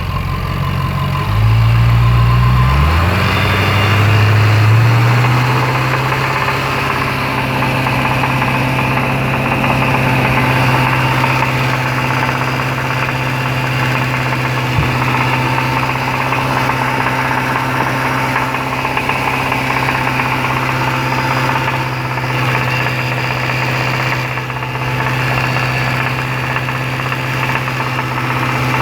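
Jaguar XFR's supercharged 5.0-litre V8 revving up over the first few seconds, then held steady at around 2100 rpm with a constant knock: rod knock from a worn big-end bearing, caused by oil starvation.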